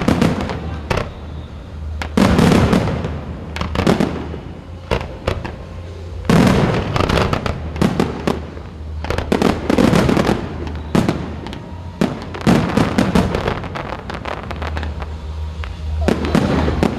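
Fireworks display: aerial shells bursting in quick volleys of sharp bangs, some followed by crackling, with short gaps between salvos.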